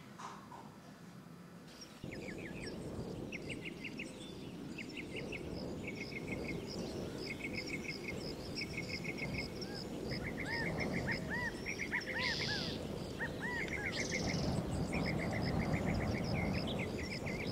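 Outdoor ambience of small birds singing, with many short repeated chirping trills and some rising-and-falling calls over a steady low background rush. It cuts in about two seconds in and grows slightly louder towards the end.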